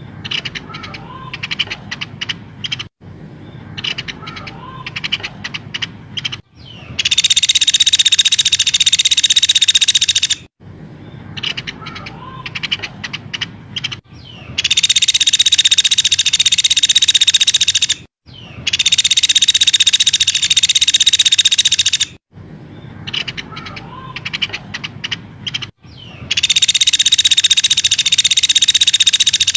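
Spliced, repeating recording of small bird calls used as a masteran lure track. Segments of about three and a half seconds each, joined by abrupt cuts: some hold a dense, continuous high-pitched trill, the others scattered sharp chirps.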